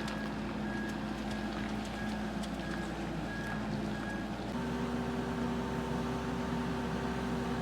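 Boatyard travel lift running steadily while it lowers a yacht in its slings, with a warning beeper sounding over and over. About halfway through the beeping stops and the machine's hum changes to a different steady note.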